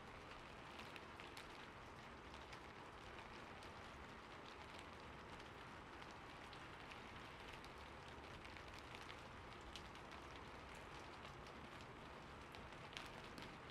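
Faint, steady patter of falling water, with many small drops and splashes scattered through it.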